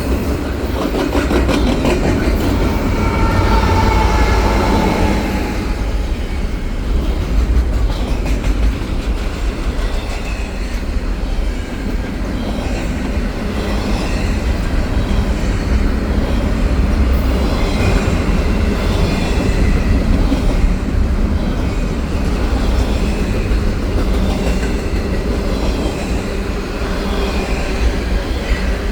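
CPKC double-stack freight train's cars rolling past: a steady, loud rumble and clatter of steel wheels on the rails, with thin high wheel squeal in the first five seconds or so.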